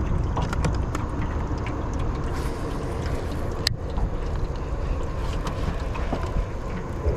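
Uneven low rumble of wind buffeting the microphone on an open fishing boat, with one sharp click a little past halfway.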